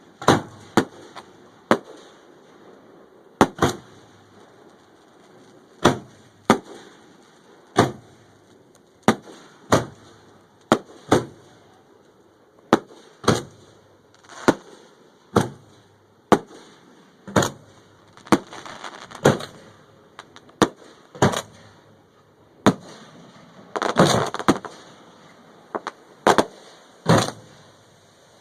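Fireworks going off: a string of sharp bangs at irregular intervals, roughly one a second, with two denser stretches of crackling in the later part.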